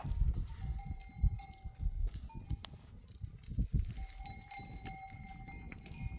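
Metal bells on goats ringing on and off as the animals move, with low irregular thuds and rumble underneath.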